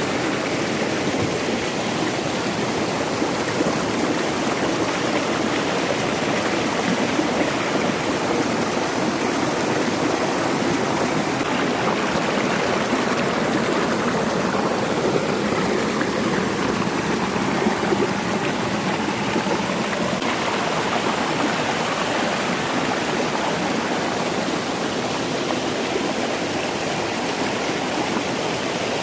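Forest stream flowing steadily into a pool, a continuous even rush of water.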